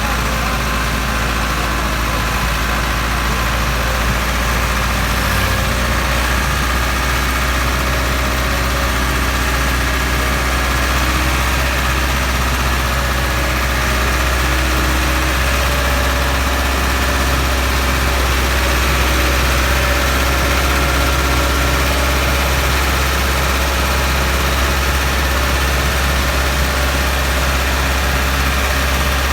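Ford 6610 tractor's four-cylinder diesel engine running steadily, a deep even drone that holds the same speed throughout.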